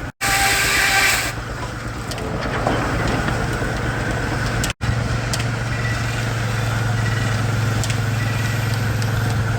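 Frick 00 sawmill running under steam-engine power: a steady low mechanical hum, with a brief loud hiss in the first second. The sound cuts out for an instant twice.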